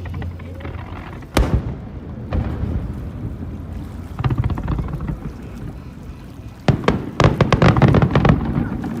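Aerial fireworks bursting over a low rumble: one sharp bang about a second and a half in, a duller thud a second later, then a rapid volley of crackling bangs in the last couple of seconds.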